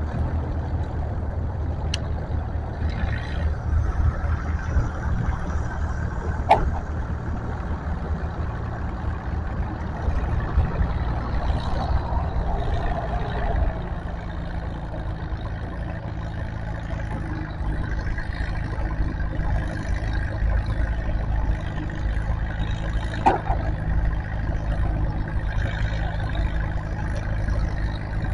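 Tractor engine running steadily, with three sharp clicks over it.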